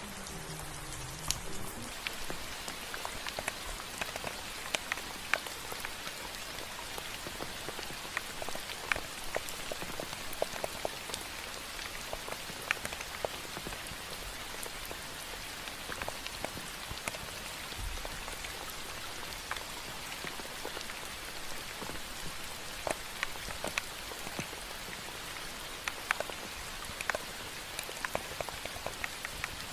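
Steady rain: an even hiss with many individual drops tapping sharply at irregular moments.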